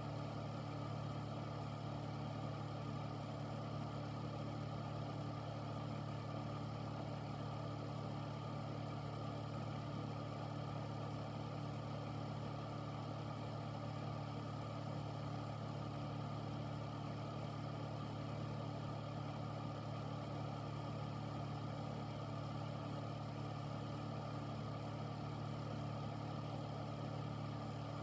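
Air filter running steadily: a constant fan rush with a low motor hum that does not change.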